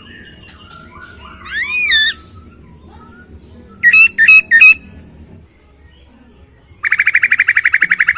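Poksay Hongkong laughingthrush singing in loud, clear whistles: a rising-and-falling phrase, then three quick notes, then near the end a long, fast trill of rapidly repeated notes. Softer chattering notes fill the gaps.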